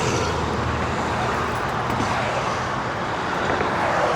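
Steady noise of road traffic, with a passing vehicle's low engine hum dying away just after the start.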